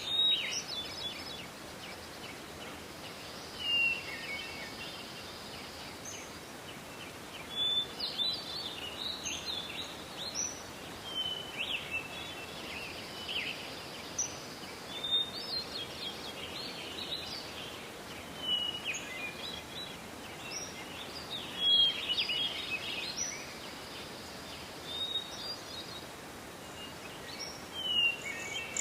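Several small songbirds chirping and calling in short, high notes, again and again, over a steady hiss of forest background.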